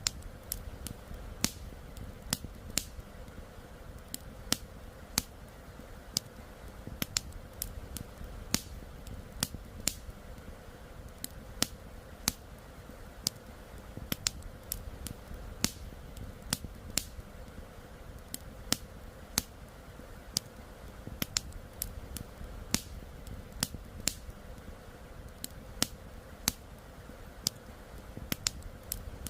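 Wood campfire crackling with sharp, irregular pops, about one or two a second, over a steady low rush of flowing river water.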